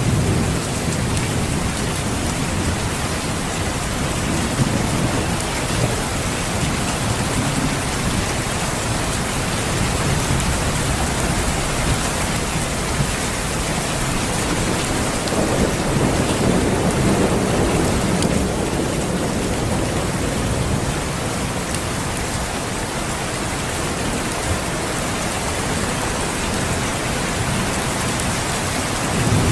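Steady rain falling, with low rolling rumbles of thunder swelling near the start and again around the middle.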